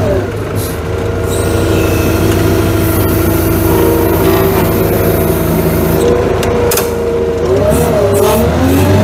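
Truck engine running steadily, its pitch wavering up and down near the end.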